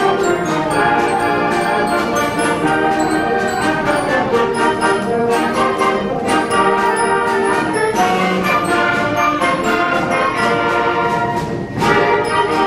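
School wind band playing in full ensemble, brass to the fore with sustained chords and sharp percussive accents. Near the end the sound briefly drops, then the whole band comes back in loudly.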